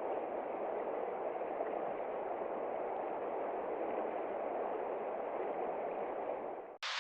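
Steady, muffled rain noise, as heard on a window. Near the end it cuts out abruptly and switches to a brighter, hissier rain.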